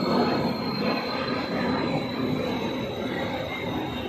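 Steady background noise with a faint high-pitched whine.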